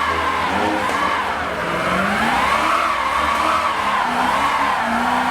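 A car's tyres squealing continuously under wheelspin while the engine is held at high revs, the squeal wavering up and down in pitch.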